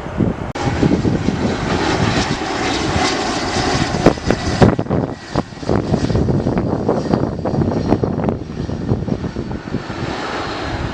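Jet airliner engines running, a steady rumble with a faint high whine, under gusty wind buffeting the microphone.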